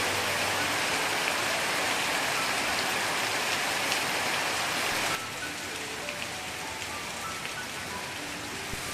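Heavy rain falling, a dense steady hiss that cuts off abruptly about five seconds in, leaving lighter rain under soft background music.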